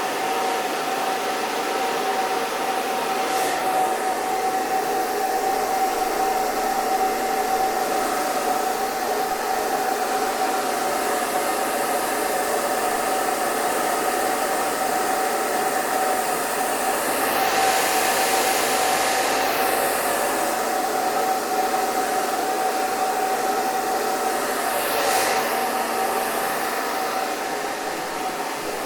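Hair dryer running steadily: an even rush of air over a constant motor whine, the hiss brightening briefly three times.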